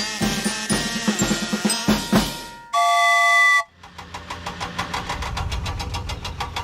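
Drum-kit music, cut off by a loud steady beep lasting about a second; then a cartoon vehicle engine sound effect starts up and runs with a fast, even chug.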